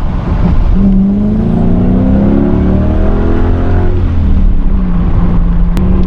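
Car engine accelerating, its note climbing steadily for about three seconds, then dropping back as the throttle eases and holding a steady cruising note.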